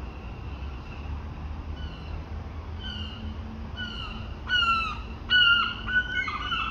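A bird calling: a run of short calls, each falling in pitch, faint at first, then louder and coming faster near the end. A steady low rumble lies underneath.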